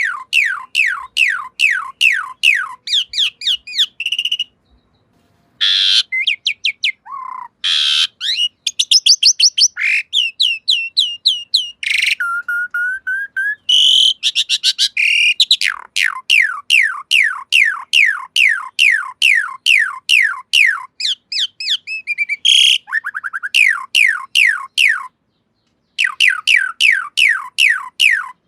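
Asian pied starling (jalak suren) singing: long runs of quick, downward-sliding whistled notes, about four or five a second, broken by a few varied calls and two short pauses.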